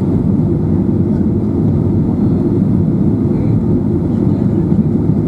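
Steady cabin noise inside a Boeing 737-800 airliner: a deep, even rumble of its CFM56 engines and airflow heard from a seat just behind the wing.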